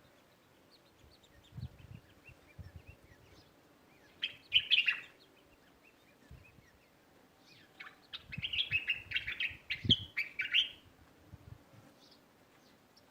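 Small songbirds chirping in two lively bursts of quick, high twittering notes, the first a few seconds in and a longer one from about eight seconds, with only scattered faint chirps between.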